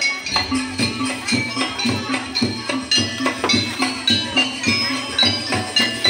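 Jaranan dance music: a gamelan-style ensemble of drum, gongs and metallophones playing a fast, even beat over a steady low tone, with bright ringing metal notes.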